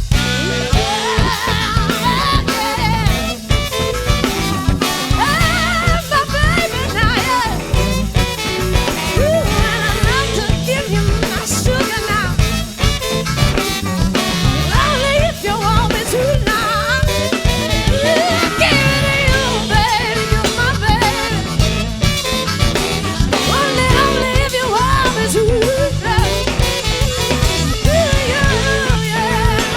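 Live band playing an upbeat soul-funk groove with drum kit and a steady beat, melodic lines weaving over it.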